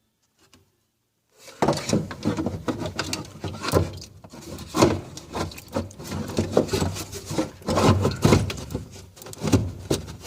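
Windshield washer jug being handled and fitted into place: an irregular string of knocks, clicks and rubbing that starts after about a second and a half of quiet.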